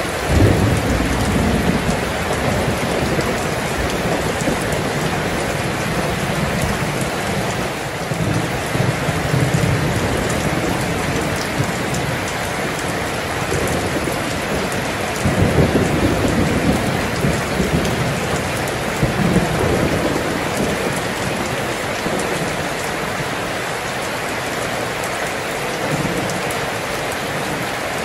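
Steady heavy rain, with low rolls of thunder rumbling several times. The strongest roll comes a little past halfway.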